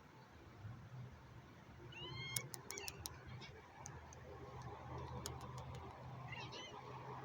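A cat meowing: short, high-pitched meows about two seconds in and again near the end, over a steady low hum and a few light clicks.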